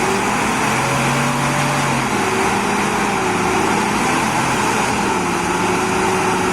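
Heavy machine engine running steadily, its pitch shifting a little a couple of times, over dense mechanical noise.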